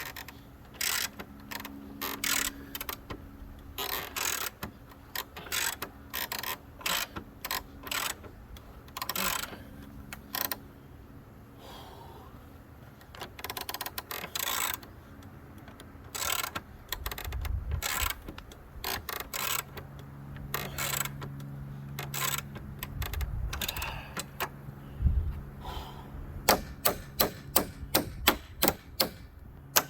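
Hand ratchet wrench clicking as a fastener is tightened by hand, in irregular runs of sharp clicks and a quicker run of about three or four clicks a second near the end, with a few dull thumps and a steady low hum.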